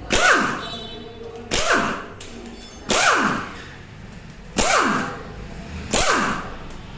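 Repeated hard hammer-like blows on metal engine parts, six in about seven seconds, each with a short ringing tone that falls in pitch as it dies away.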